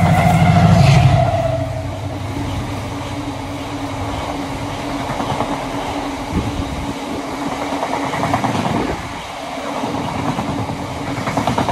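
Diesel freight locomotive passing close by, its engine loudest in the first second or so. It is followed by the steady rumble and clatter of a long rake of loaded stone ballast wagons rolling past.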